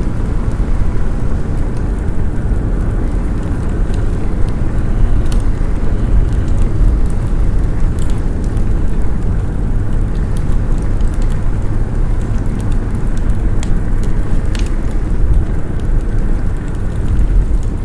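Snowstorm wind as a steady deep rumble, with the sharp crackles and pops of a wood fire scattered through it.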